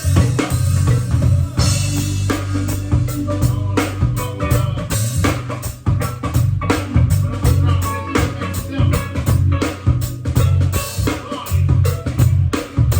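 Live band music: a drum kit playing a steady beat with rimshots and bass drum over a heavy, sustained bass line.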